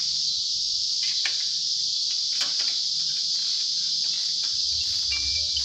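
Steady, continuous chirping of crickets, with a few faint clicks.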